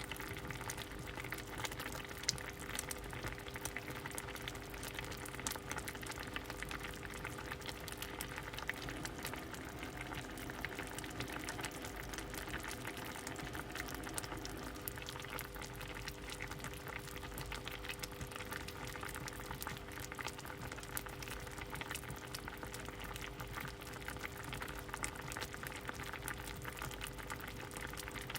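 A pot of soup boiling steadily, bubbling with many small pops.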